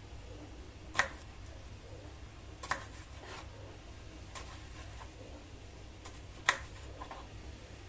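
Sharp, irregular clicks and taps of kitchen utensils, about seven in all, the loudest about a second in and near the end, over a low steady hum.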